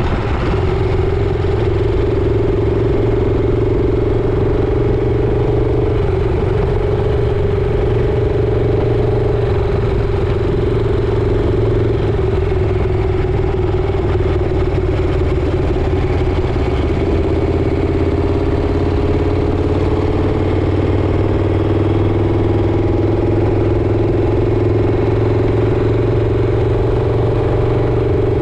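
Motorcycle engine running steadily while riding, its pitch rising slightly in the later part.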